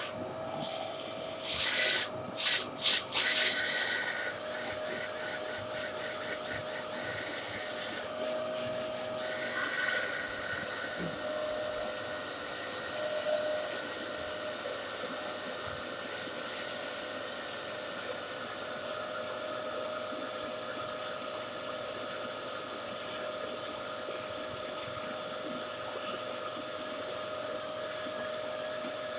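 Dyson DC07 bagless upright vacuum cleaner running steadily with a high, constant motor whine. A few loud sharp clacks come about two to three seconds in.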